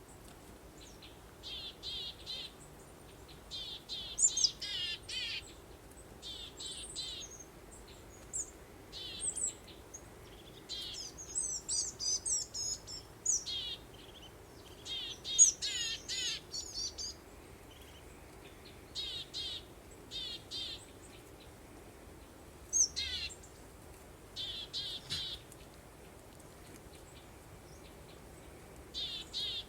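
Songbirds chirping and singing in short, repeated trilled phrases, some with quick downward sweeps, over a faint steady background hiss.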